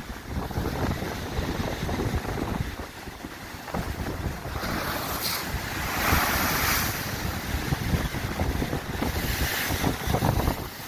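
Wind buffeting the microphone with a constant low rumble, while sea waves break and wash up the beach in hissing surges, the biggest about halfway through and another near the end.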